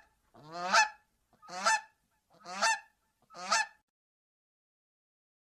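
Goose honking: four harsh honks about one a second, each swelling in loudness.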